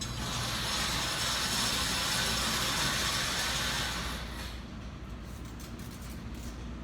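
Range target carrier running along its overhead track for about four seconds, sending the target downrange, with a steady mechanical rushing that starts abruptly and dies away.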